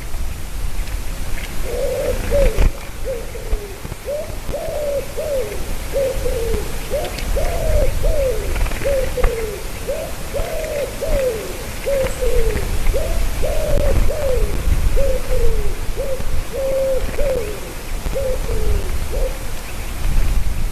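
A bird calling a long series of short, falling notes, about two a second, that starts about two seconds in and stops just before the end. A steady low rumble runs beneath.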